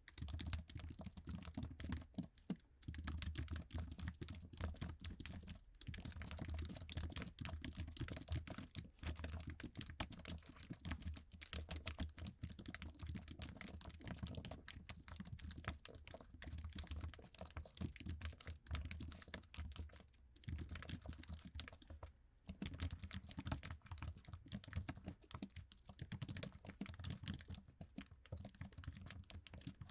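Continuous fast typing on an Apple iMac's standard low-profile keyboard: rapid, soft key clicks with a few brief pauses.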